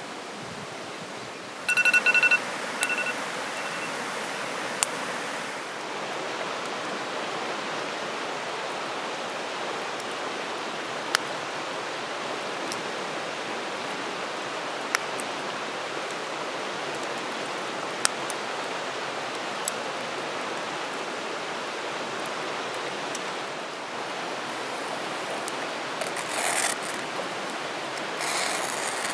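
Steady rushing of a flowing stream. A short run of high pitched beeping tones comes about two seconds in, scattered sharp clicks occur throughout, and there is rustling near the end.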